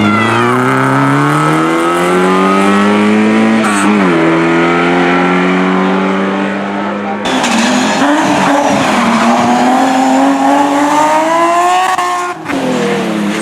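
Hillclimb race car engine at full throttle, its pitch climbing steadily through the revs and dropping sharply at an upshift about four seconds in. After an abrupt break about seven seconds in, the revs climb again to another upshift near the end.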